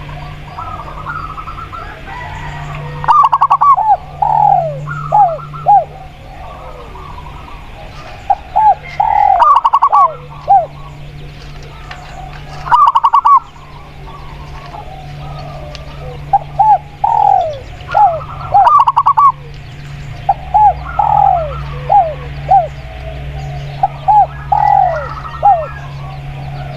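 Doves cooing, spotted dove and zebra dove, in phrases of short repeated notes spread across the stretch; a few phrases are much louder than the rest. A steady low hum runs underneath.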